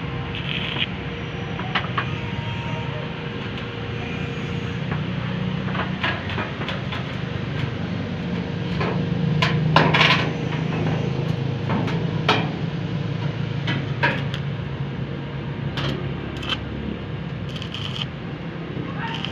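Scattered knocks, taps and scrapes of hand work on ducting over a steady low hum, busiest and loudest about halfway through.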